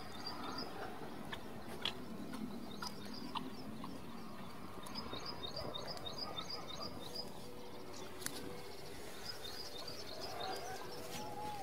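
A small bird chirping in quick runs of short, high notes, about four a second, over faint outdoor background noise, with a few sharp clicks in between.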